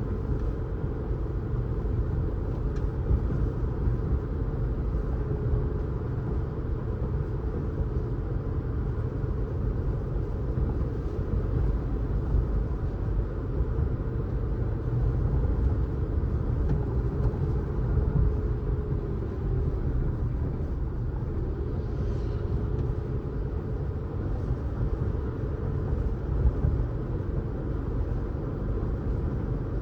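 Car driving along a road: a steady low rumble of engine and tyre noise, with a faint steady hum above it.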